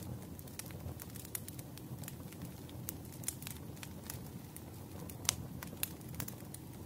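Wood fire crackling: scattered sharp pops and snaps over a low steady rumble, with the loudest pop a little past five seconds in.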